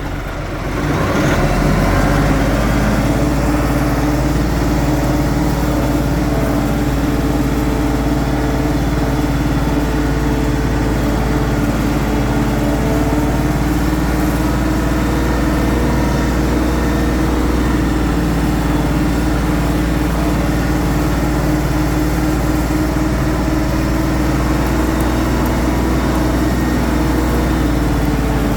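Kioti NS5310 compact tractor's diesel engine revving up about a second in, then running steadily under load while pulling a tree out with a hydraulic tree puller.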